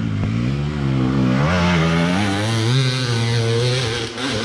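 Dirt bike engine revving hard on a hill climb, its pitch rising and falling repeatedly as the rider works the throttle, easing off near the end.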